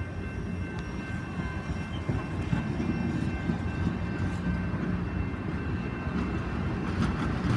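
Canadian Pacific Holiday Train's railcars rolling slowly past, a steady low rumble with faint steady high tones above it.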